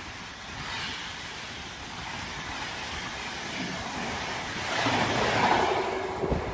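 An express train coming up at speed: a rushing roar with wind on the microphone, growing louder about five seconds in. The first sharp wheel clatter over the rail joints starts near the end.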